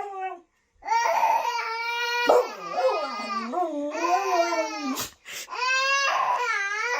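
A dog whining in long, wavering drawn-out calls, several in a row, with a brief break near the start and a short click about five seconds in.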